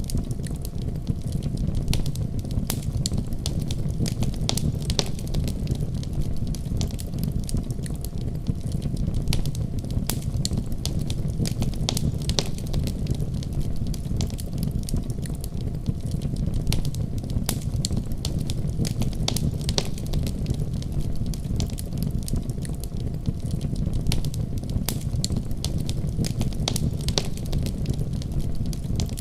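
Fireplace fire crackling: a steady low rumble of flames with frequent sharp pops and snaps.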